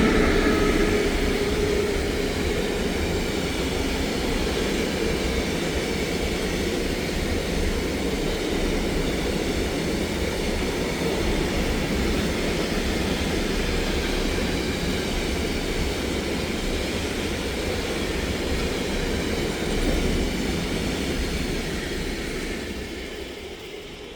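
A train running past, a steady loud rumble and hiss of wheels on rails that fades away near the end. The last of its horn dies out in the first second.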